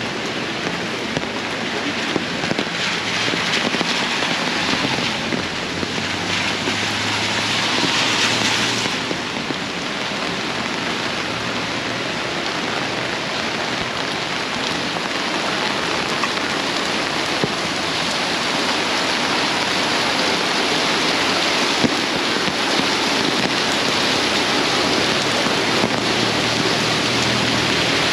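Heavy downpour: torrential rain pouring steadily and splashing on the street and surrounding surfaces, a dense, even hiss of rain.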